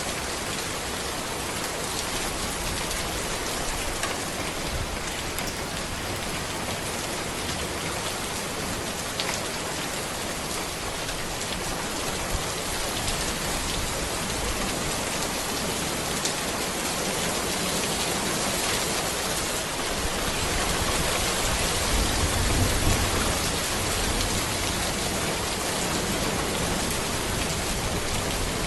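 Steady rain falling on a road, an even hiss with scattered drop ticks; a low rumble swells briefly about three quarters of the way through.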